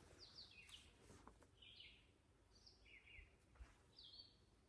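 Faint birdsong: a small songbird giving short, high chirping notes about once a second, over quiet forest background.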